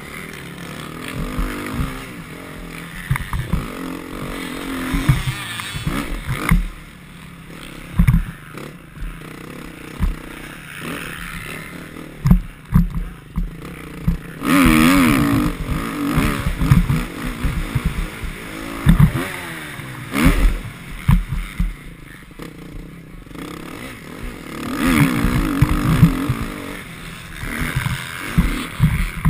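Motocross bike engine revving up and down again and again as the rider works the throttle, loudest about halfway through and again near the end, with frequent low thumps and knocks.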